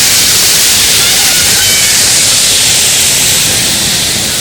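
Waterfall cascading over rock, a loud steady rush of falling water, easing a little near the end.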